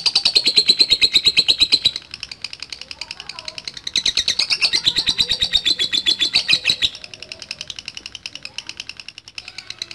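Lovebird ngekek: a long, fast, rattling chatter of about ten high notes a second, in two long loud runs, the second starting about four seconds in, with quieter chattering between and after.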